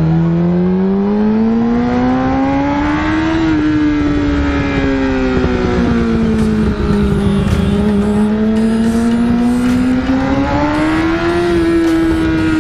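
Yamaha R6 inline-four engine through an Akrapovic full exhaust, its pitch climbing smoothly, dropping back, then climbing and dropping again as the revs rise and fall.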